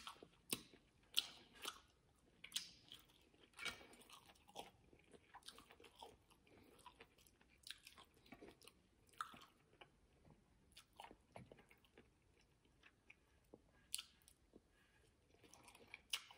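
Faint, close-miked chewing of soft stuffed salmon: irregular small mouth clicks that come thick at first and thin out in the second half.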